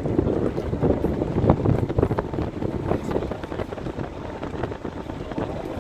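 Wind buffeting the microphone aboard a cruise ship under way: a gusty low rumble that eases a little after the first two seconds or so.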